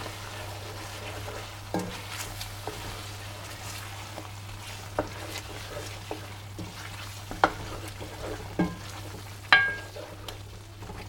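Spoon stirring cream into simmering butter chicken gravy in a pan, the sauce sizzling steadily, with scattered knocks of the spoon against the pan; the loudest knock, near the end, rings briefly.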